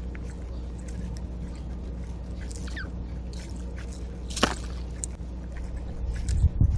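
Birds at a backyard feeder: scattered short clicks and chirps over a steady low hum, with one sharp call sweeping steeply downward about four seconds in. Low knocks come near the end.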